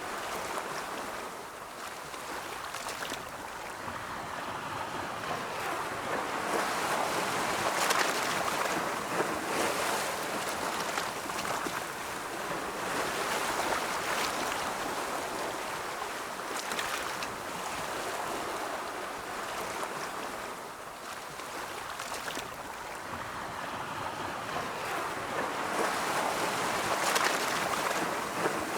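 Ocean waves rolling onto a shore, a steady wash of surf that swells and ebbs every few seconds, with a few sharper breaking crests.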